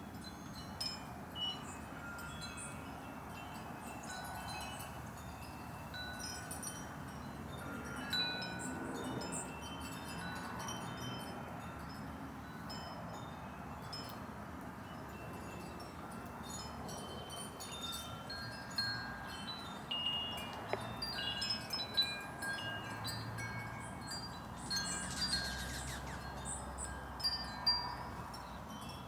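Wind chimes ringing, scattered tones at several fixed pitches struck and fading. The strikes come more often and louder in the second half.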